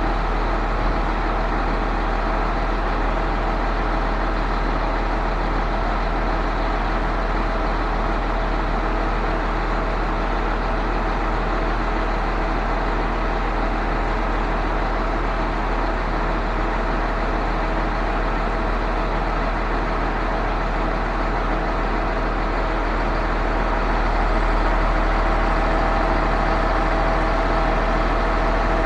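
Truck-mounted concrete pump's diesel engine running steadily, getting slightly louder near the end.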